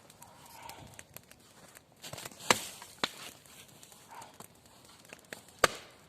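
Dry wood cracking and snapping in scattered sharp cracks over a faint rustle, the loudest about two and a half seconds in and another late on.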